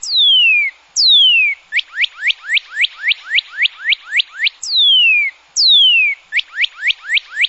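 Northern cardinal singing: two long whistles that slur down in pitch, followed by a quick run of short sweeping notes, about four a second. The whole phrase then repeats.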